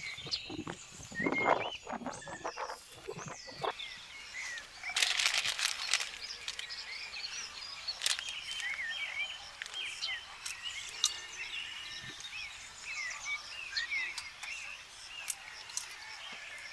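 Many small birds chirping and calling over one another, with a few knocks and handling noises in the first few seconds and a brief rustle about five seconds in.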